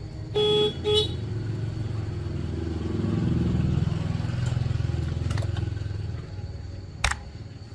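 Motorcycle engine running with a low rumble that swells a few seconds in and then eases off. Two short horn beeps sound near the start, and a sharp click comes near the end.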